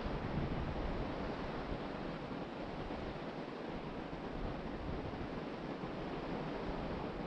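Ocean surf washing steadily onto the beach, with wind buffeting the microphone in a low, unsteady rumble.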